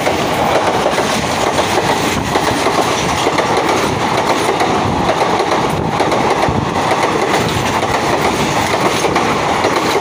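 Indian Railways passenger coaches rolling past close by, their wheels clattering on the rails in a loud, steady rush.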